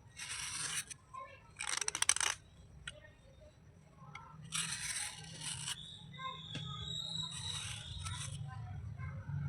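Wet slate pieces being scraped and rubbed in four short strokes, the second one the loudest with a quick clatter of hard clicks.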